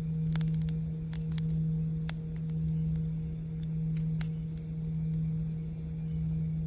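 A singing bowl's low steady hum, swelling and fading about once a second, over a wood campfire crackling with scattered sharp pops.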